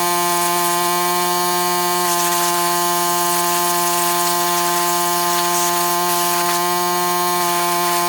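A motor running steadily at one unchanging pitch: a loud, even buzzing drone over a hiss.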